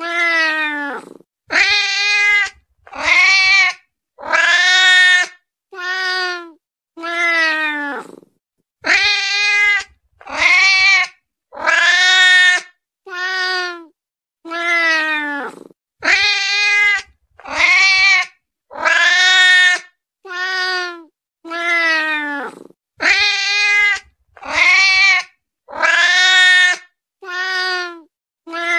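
Domestic cat meowing over and over: a long run of separate, pitched meows, roughly one a second, each under a second to about a second long, with short gaps between them. These are a hungry cat's meows.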